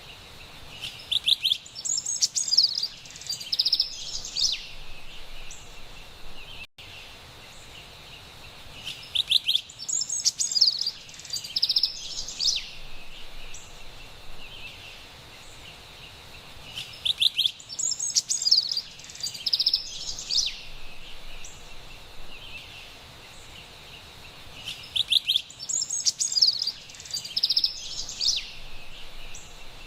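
A songbird singing the same phrase four times, about every eight seconds, each a couple of seconds of quick high notes and trills, over a steady faint high hiss.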